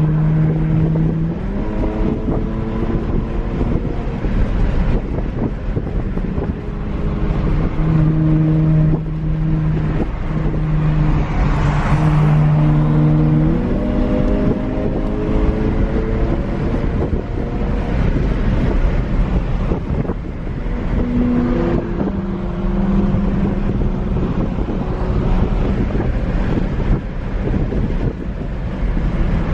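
Car engine running on the move, with road and wind noise. Its pitch steps up and down as the revs change, and a rushing noise swells briefly about twelve seconds in.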